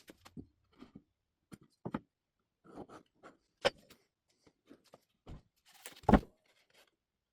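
Scattered knocks and clicks of tools and workpieces being handled at a workbench, with a louder thump about six seconds in.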